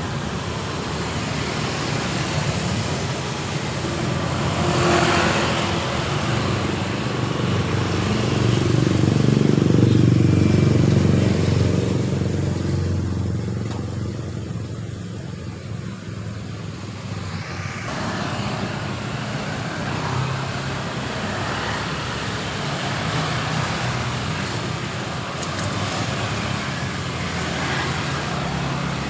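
Road traffic passing, with one louder vehicle going by about ten seconds in.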